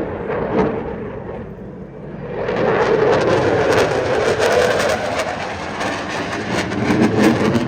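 Jet noise from an RAF Eurofighter Typhoon's twin engines in a display pass. It swells sharply about two and a half seconds in and stays loud, with a rough crackle.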